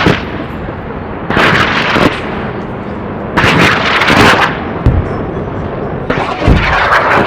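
Rocket launches: three loud rushing whooshes, one about every two seconds, with a couple of short low thuds between them.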